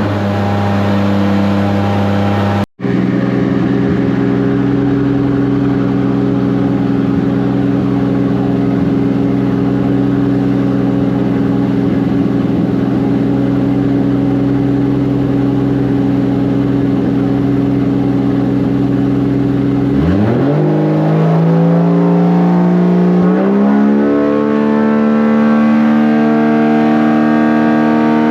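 Turbocharged 2JZ engine of a drift car running at a steady speed, then climbing in several rising steps from about 20 seconds in and holding at higher revs.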